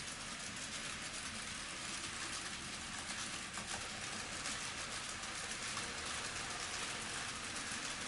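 N scale model train running on a layout: a steady whirring and rolling of the small wheels on the track, with a faint fine ticking in it.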